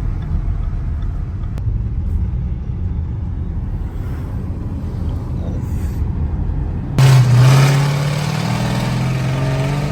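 Steady low rumble of a car driving. About seven seconds in, a much louder engine drone cuts in suddenly and holds: the exhaust of a loud Dodge Durango.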